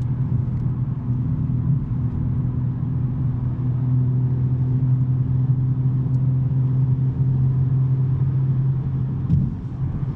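Exhaust of a 2023 BMW M3's twin-turbo straight-six, fitted with a non-resonated SuperSprint mid pipe, running at steady revs under way with a low, even drone. There is a brief click and dip in level near the end.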